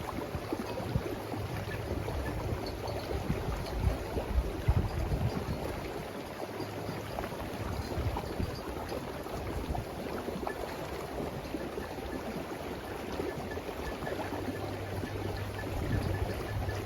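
Steady rushing outdoor noise, like running water, with low rumbles of wind on the microphone.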